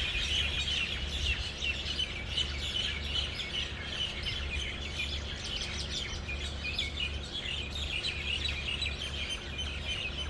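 Many small songbirds chirping at once, a dense chorus of quick overlapping high chirps, over a steady low rumble.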